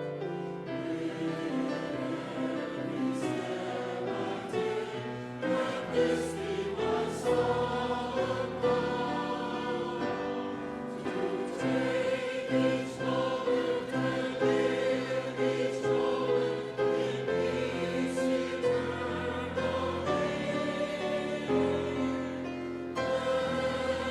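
Church choir singing a hymn, with a low bass line and instrumental accompaniment.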